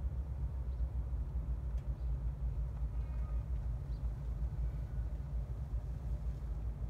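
Steady low rumble of a moving rubber-tyred New Shuttle people-mover car, heard from inside its cabin.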